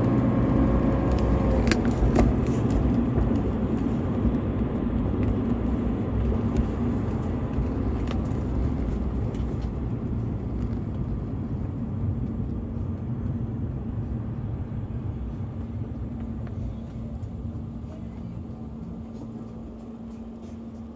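BMW E46 320i's 2.0-litre M52TU inline-six engine running, its sound growing steadily quieter.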